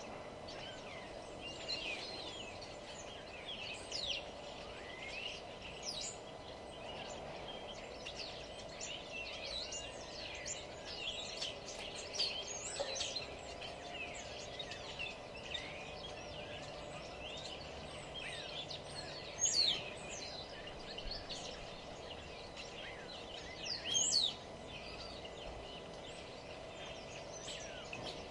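Several songbirds chirping and singing over one another in quick, short notes over a steady background hum, with two louder calls in the second half.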